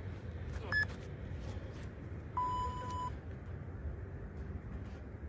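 Interval timer beeping: a short high beep about a second in, ending a once-a-second countdown, then one longer, lower beep a second and a half later, the signal that the rest is over and the next set of pull-ups begins.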